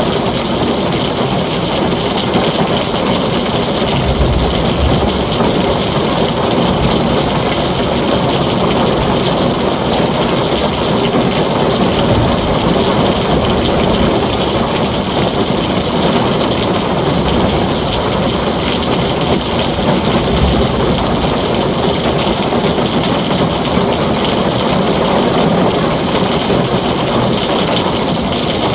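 Heavy rain falling steadily on a tin roof, with short low rumbles of thunder about four seconds in and again around twenty seconds.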